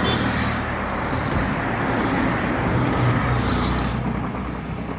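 A motor vehicle's engine running steadily, with a short hissing rush near the start and another a little past three seconds in.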